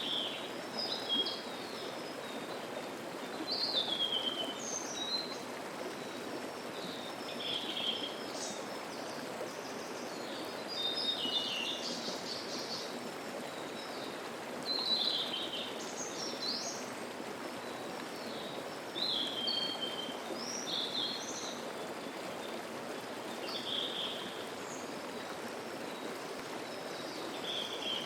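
A mountain stream flows steadily. Wild songbirds sing short high phrases over it every second or two, several of them falling in pitch.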